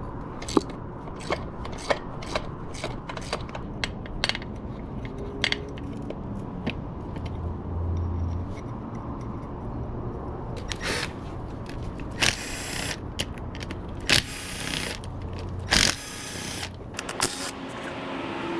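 Hand tools working on a small 125cc pit bike engine as it is taken apart: a run of sharp metal clicks and knocks, then several short rough metallic bursts in the second half.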